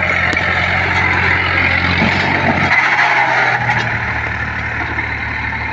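Diesel tractor engine running steadily over a loud hiss of noise, its note dropping and changing about halfway through.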